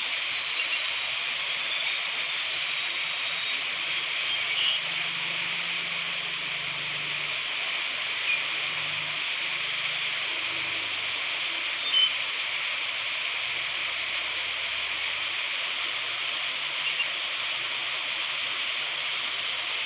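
A steady, even hiss of noise, like rushing water, with a few faint clicks.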